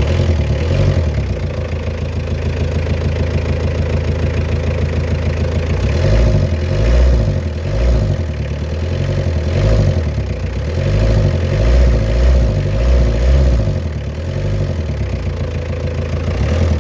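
Mitsubishi 4D56 four-cylinder diesel engine running at idle, with uneven low swells in loudness from about six seconds in.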